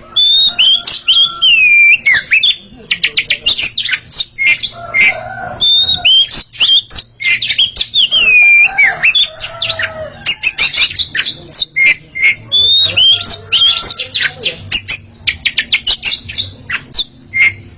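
Oriental magpie-robins singing loudly in a continuous, varied song of clear whistles, sliding notes and rapid trills.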